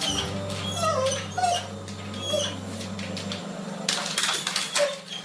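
A cat giving several short, high mewing calls that bend in pitch, over a steady low hum.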